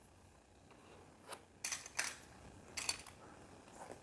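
Plastic building pieces clicking and clattering as they are handled and sorted, in a handful of faint, separate clicks.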